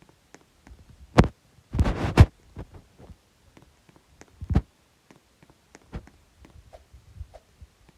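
A few dull thumps and knocks, the loudest about a second in, a short cluster around two seconds in and another after four and a half seconds, with small scattered clicks in between.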